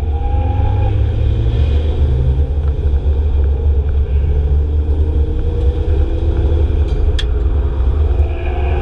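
Car engines running with a steady low rumble, without sharp revving, and a single sharp click about seven seconds in.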